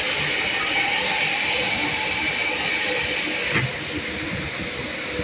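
Steady hissing noise from car-wash equipment, with a single short knock about three and a half seconds in.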